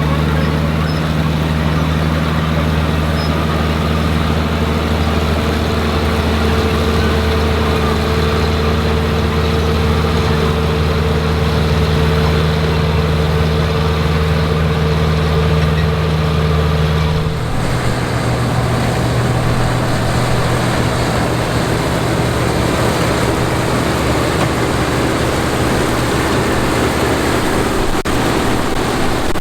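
Classic combine harvester running while harvesting corn, a steady engine drone. About two-thirds of the way through, it changes suddenly to a different engine note.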